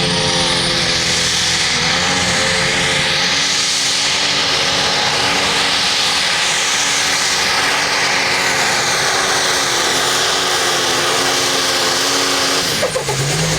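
A competition puller's engine running flat out under load as it drags the weight-transfer sled, a loud steady sound with a strong high hiss over it. It cuts back near the end as the run finishes.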